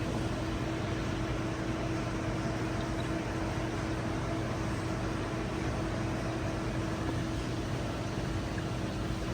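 Steady machinery hum of a fish store's aquarium equipment and air handling: a low drone with a few constant tones over an even hiss.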